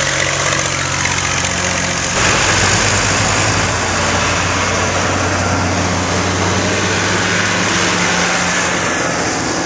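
Tractor engines running steadily as tractors move along the road, a louder one coming in sharply about two seconds in.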